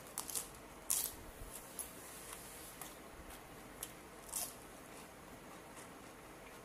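Fresh lettuce leaves being bitten and chewed: faint, irregular crunches and mouth clicks, the loudest about a second in and again about four and a half seconds in.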